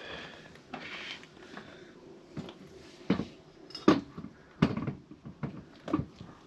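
Metal clinks and knocks as a motorcycle rear wheel is worked back onto its hub, a handful of sharp strikes in the second half.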